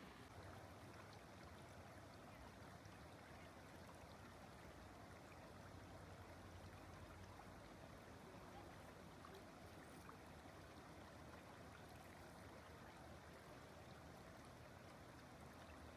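Near silence: faint, steady outdoor ambience with no distinct events.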